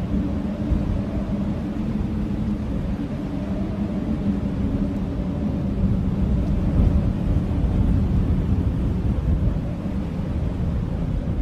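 Strong blizzard wind howling: a steady, deep rush of wind with low, held moaning tones.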